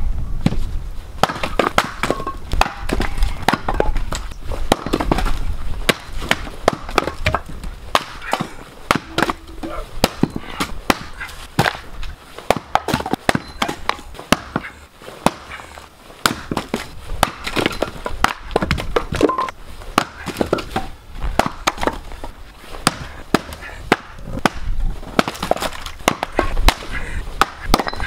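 Wood fire crackling and popping: a dense, irregular run of sharp cracks, several a second, over a low rumble.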